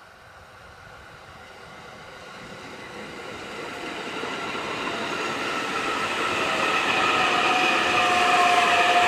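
Electric train approaching, growing steadily louder throughout. About six seconds in, a high whine in several pitches comes in and slowly falls in pitch.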